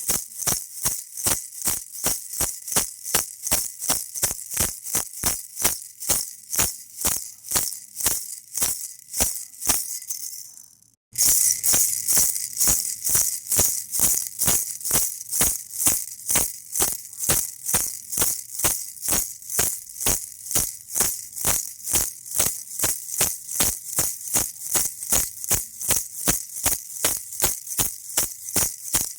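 Baby rattle toy shaken in a steady rhythm, about two to three shakes a second. Around a third of the way in the shaking fades and stops for a moment, then starts again suddenly.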